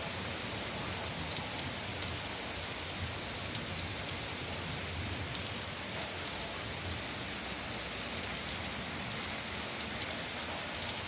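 Heavy rain falling steadily, pattering on surfaces with many individual drop ticks.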